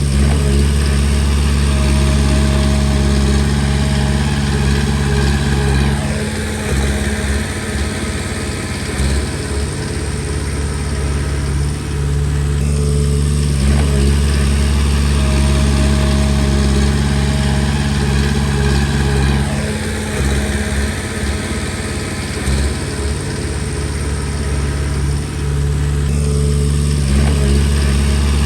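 Diesel engine of a Komatsu D20P crawler bulldozer running under work. Its note holds steady for several seconds, then turns uneven and choppy, and the two stretches alternate about every 13 seconds.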